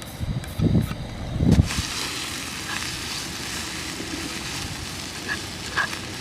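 Strong wind buffeting the microphone in low thumps over the first couple of seconds, then a steady sizzling hiss of food frying that cuts off suddenly at the end.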